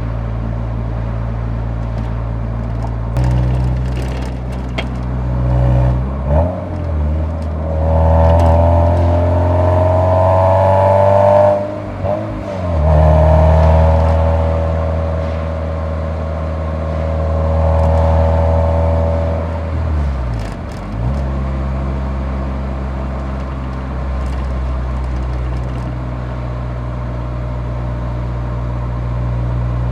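Exhaust note of a Nissan 180SX's SR20DE four-cylinder engine, heard from the muffler while driving. It drones steadily, then climbs in pitch through the revs twice, each climb broken off by a short dip, and settles back to a steady cruising drone.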